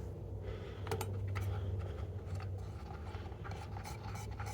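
Faint handling noises: scattered light clicks and rubbing as parts of the garden tractor are worked by hand, over a steady low hum.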